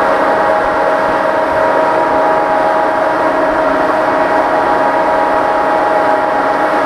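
Cooling blower of a JNR Class EF64 0-series electric locomotive running steadily while the locomotive stands: several held tones over a rush of air.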